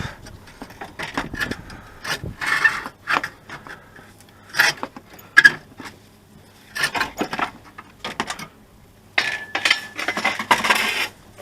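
Irregular metallic clinks, rattles and short scrapes of hand tools and engine parts being handled, with a brief steady high squeak about nine seconds in.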